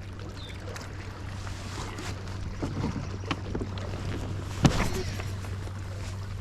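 Kayak moving on open water: water sloshing against the hull over a steady low hum, with scattered light knocks and one sharp knock about four and a half seconds in.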